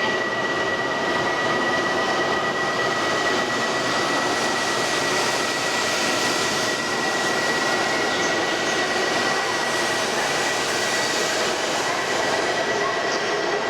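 E2 series Shinkansen train at a station platform: a steady rushing rumble with one steady high-pitched whine held throughout.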